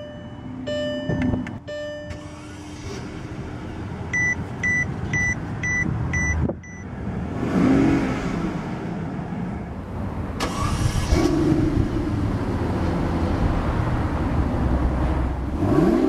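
Dashboard chimes, then a run of about five beeps at roughly two a second. About seven or eight seconds in, the 2011 Maybach 62 S's 6.0-litre V12 starts and settles into a steady idle. Near the end there is a short rev that rises and falls.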